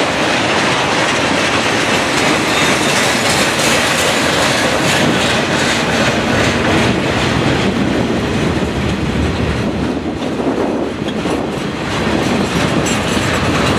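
Freight cars of a CSX manifest train rolling past at close range, their wheels clattering steadily over the rail joints.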